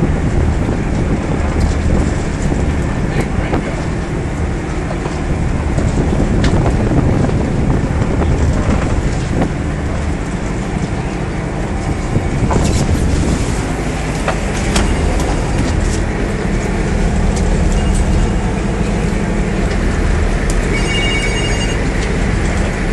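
Fishing boat's engine running steadily while underway, its low drone mixed with the rush of water and wind, and a few short knocks.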